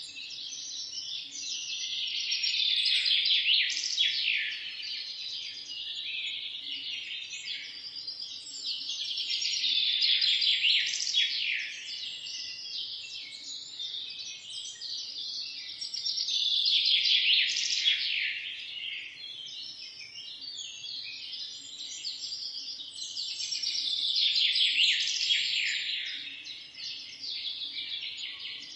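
Dense chorus of many small birds chirping at once, swelling louder and falling back about every seven seconds.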